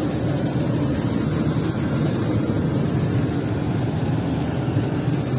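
A steady low mechanical rumble, like running machinery, holding level throughout.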